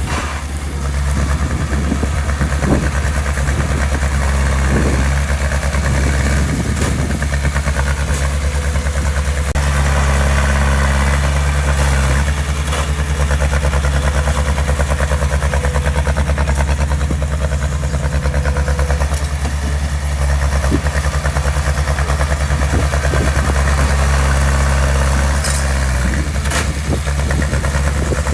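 Heavy construction-machine diesel engine running steadily at an even speed, with a few short clanks now and then.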